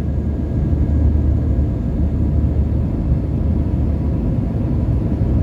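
Steady low rumble of jet engines and rushing air heard inside an airliner cabin while the plane is still climbing after takeoff, with the seatbelt sign on.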